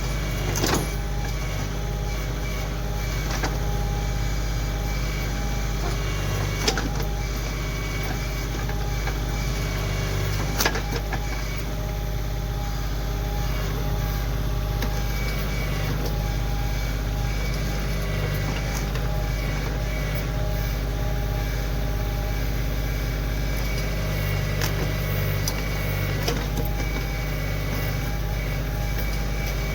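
Kioti CK2610 compact tractor's diesel engine running steadily during backhoe digging, with a few sharp knocks, the loudest about a second in and near eleven seconds in.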